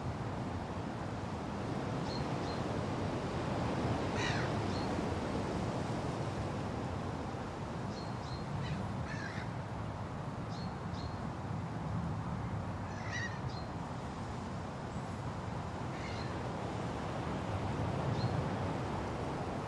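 Steady wind rushing through forest trees, with short bird calls scattered over it. The clearest calls come about four, nine and thirteen seconds in.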